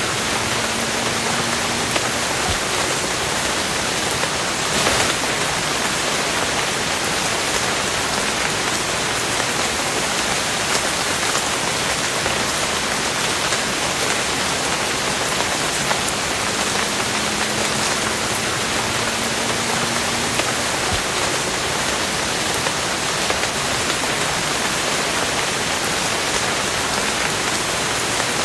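Steady, dense rainfall pattering on a surface, with a single louder drop or splat about five seconds in.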